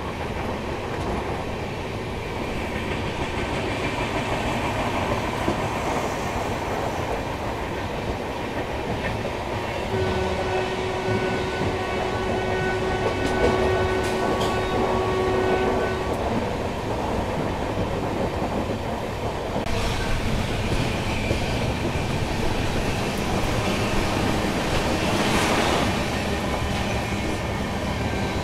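Passenger express train running at speed, heard from on board: a steady rumble with wheels clicking over the rail joints. The train's horn sounds as one steady blast for about six seconds near the middle, and a louder rushing swell builds late on and cuts off suddenly.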